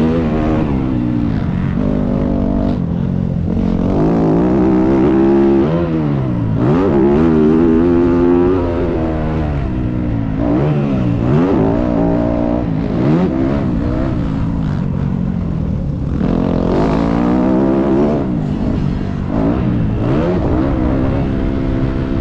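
Motocross dirt bike engine being ridden, revving up and down over and over, its pitch rising and dropping every second or two with throttle and gear changes.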